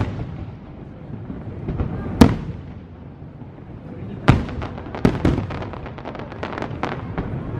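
Fireworks display: aerial shells bursting with sharp bangs, one about two seconds in and another just after four seconds, followed by a rapid run of crackling pops for about two seconds, over a low rolling rumble.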